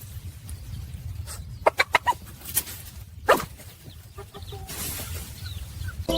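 Short animal calls, several in quick succession about a second and a half in and one more a little after three seconds, over a steady low rumble.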